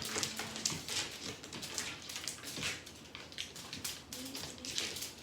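Irregular rustling and scratching, several quick scrapes a second, during play with a cat.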